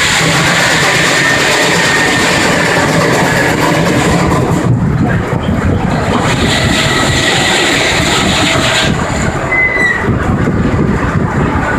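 Sawmill running loud and steady, with a saw cutting through a log. The high hiss of the cut breaks off about five seconds in, picks up again, and stops about nine seconds in.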